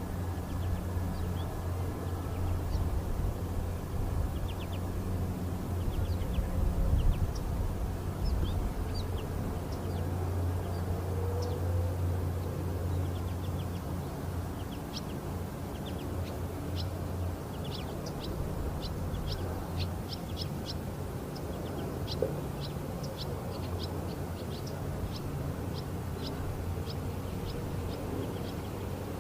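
Short, high chirps of small birds, sparse at first and coming thick and fast from about halfway. Under them runs a steady low rumble that eases off after the middle.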